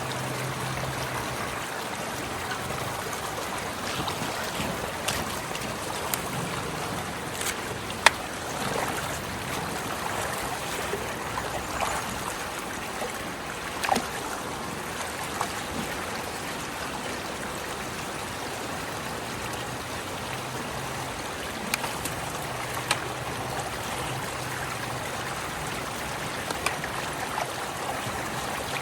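Rain-swollen water flowing steadily through a culvert, a continuous rush, with a few sharp clicks and knocks scattered through it.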